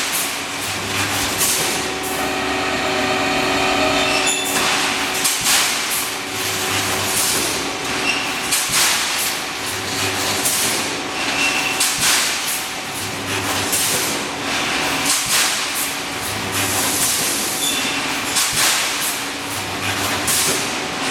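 Pneumatic rebar mesh welding machine running through its cycle: repeated clanks and hisses of the machine, with a short low hum from the resistance-welding transformers about every three seconds as each cross wire is welded.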